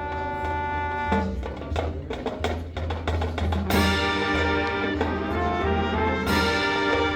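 High school marching band playing its field show: a held note, then a run of sharp percussion hits, then the brass section comes in with loud sustained chords about four seconds in.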